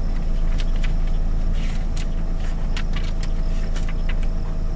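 Car engine idling with a steady low hum, with scattered light clicks over it.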